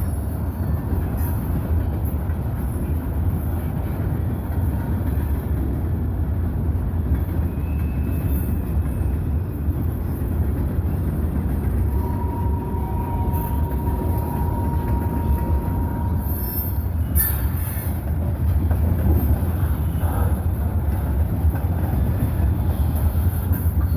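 Freight cars of a mixed manifest train rolling past: a steady rumble of steel wheels on rail. About halfway through, a thin steady wheel squeal runs for a few seconds.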